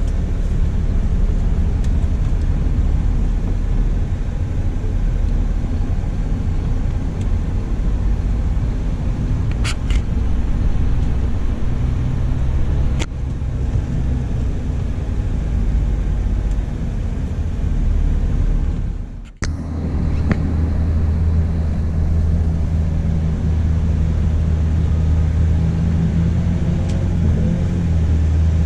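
Scania coach running: a loud, steady low rumble of engine and road noise. It breaks off suddenly about two-thirds through and resumes as a steadier engine drone.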